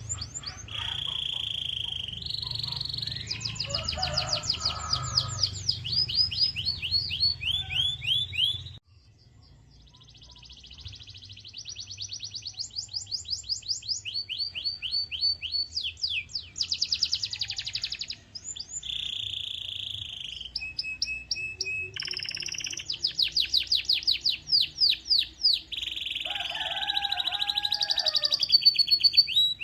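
Domestic canary singing: fast runs of identical rising or falling notes, about ten a second, alternating with held buzzy notes. The song breaks off abruptly about nine seconds in, then resumes.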